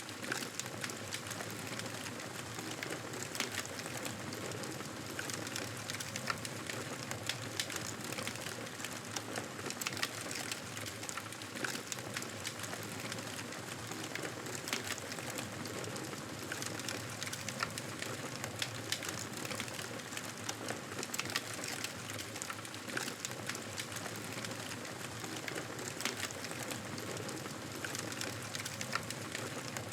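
Wood fire crackling in a fireplace: a steady hiss with frequent sharp pops and snaps scattered irregularly throughout.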